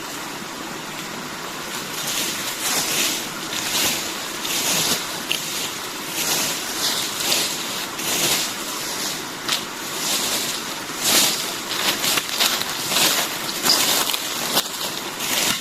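Dry forest leaves and debris being swept and scraped off the ground in repeated swishing strokes, about one a second, starting about two seconds in.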